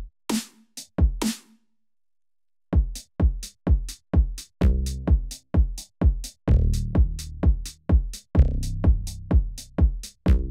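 Electronic drum sounds from a Roland SPD-SX Pro sampling pad's factory kit struck by hand and pedal. After a few hits and a short pause, it settles into an even beat of about two hits a second: deep, pitched bass-drum tones under bright snare and hi-hat hits.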